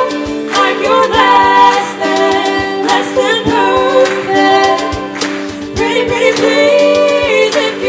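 A small show choir sings with live instrumental backing: held chords and moving vocal lines over a steady beat.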